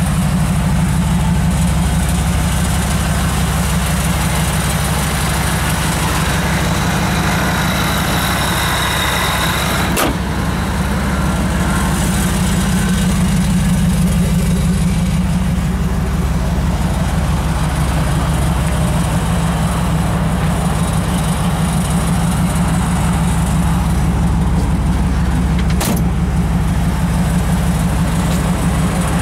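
Supercharged 5.4-litre V8 of a 2002 Ford F-150 Lightning running steadily. Two brief clicks come about ten seconds in and again a few seconds before the end.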